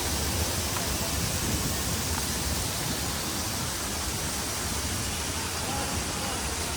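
Steady rushing noise with a low rumble, unchanging throughout.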